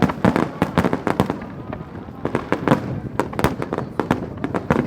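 Fireworks display: a rapid, unbroken series of sharp bangs and pops from bursting shells, several a second.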